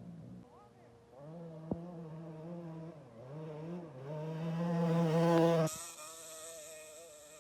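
Dirt bike engine buzzing with small throttle changes, its pitch dipping and rising, getting louder until it cuts off abruptly near the end; a sharp click about a second and a half in.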